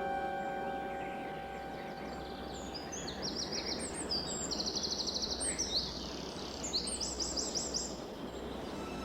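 Birds chirping in quick repeated high trills over a steady outdoor hiss, starting about three seconds in, as a faint music note fades out.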